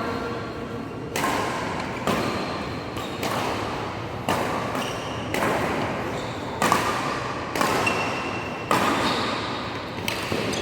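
Badminton rally: the shuttlecock struck by rackets back and forth, a sharp smack about once a second, each hit echoing briefly in the hall.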